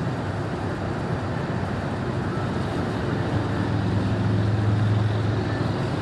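Steady road and engine noise inside a car cruising at highway speed, with a low hum that swells louder about four to five seconds in.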